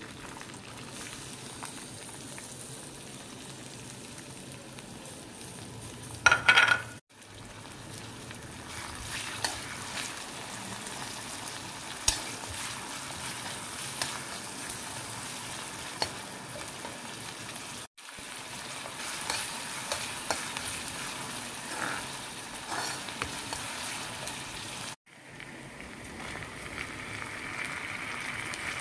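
Chopped onions sizzling and frying in hot oil in a kadai, stirred with a metal spatula that clicks and scrapes against the pan now and then. There is a short loud clatter about six seconds in, and the sound breaks off abruptly three times.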